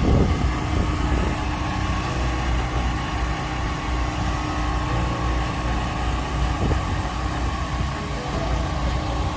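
Steady hum of idling engines: a continuous low rumble with a constant tone over it.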